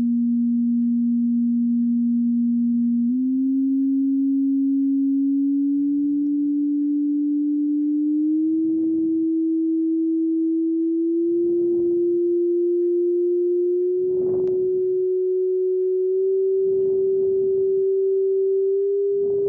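A pure sine test tone from a tone generator, raised in frequency step by step: a steady, low tone that jumps up a little in pitch about every two and a half seconds, with a faint blip at each change, growing gradually higher and more shrill.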